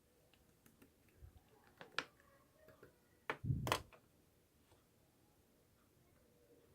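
Scattered light clicks and taps, with a louder thump and short rustle about three and a half seconds in.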